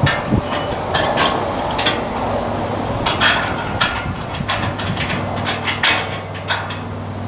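Irregular metallic clanks, knocks and taps of work on the aluminium solar-panel rack and its fittings. A steady low hum comes in about two seconds in.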